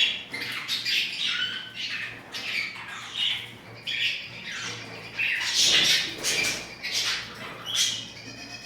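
Pet birds squawking: a quick run of harsh, noisy calls one after another, several overlapping.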